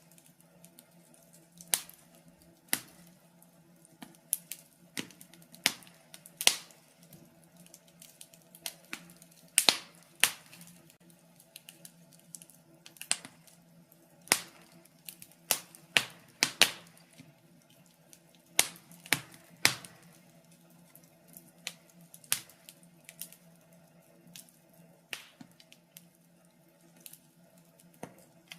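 Wood fire crackling: sharp, irregular pops and snaps of burning logs, one or two a second, over a faint steady low hum.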